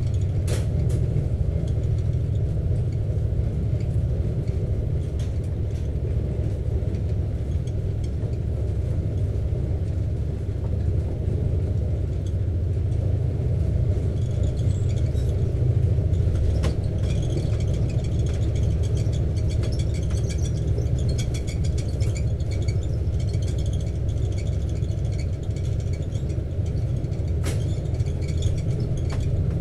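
Steady low rumble inside a double-decker passenger train carriage running at speed. A few single knocks and, from about halfway through, a stretch of light, fast, high-pitched rattling.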